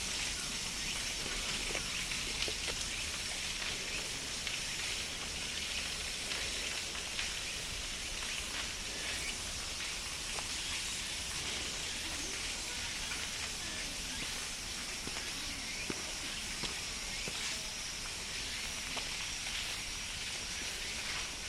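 Chorus of cicadas: a steady, high sizzling hiss with a faint constant whine, over a low background rumble.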